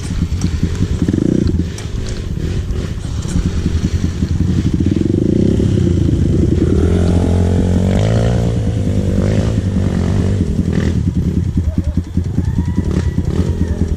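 Dirt bike engine running under load, with the revs climbing and the engine working harder through the middle of the stretch before settling back, and clattering mixed in.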